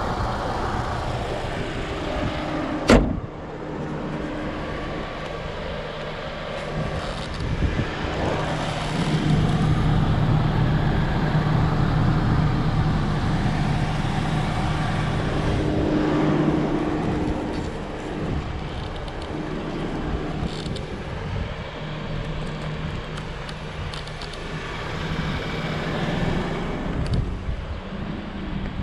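Lexus RX 200t driving in city traffic: its 2.0-litre turbocharged four-cylinder 8AR-FTS engine running with tyre and road noise, getting louder for several seconds in the middle as the car pulls. A single sharp click about three seconds in.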